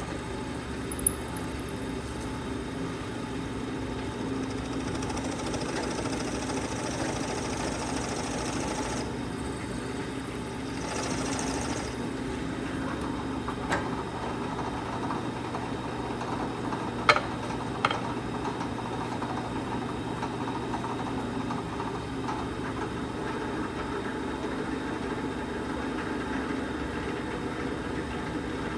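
A motor running steadily with a low hum, with a few sharp clicks and knocks scattered through it.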